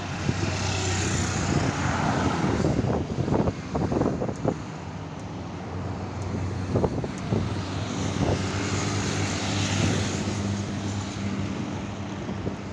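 Two trucks pass by on a highway one after the other, each with its engine droning and a tyre and wind hiss that swells as it goes past. The first passes about a second in and the second about nine seconds in.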